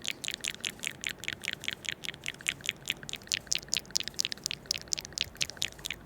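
Rapid, uneven crisp clicks or taps, several a second, close to the microphone.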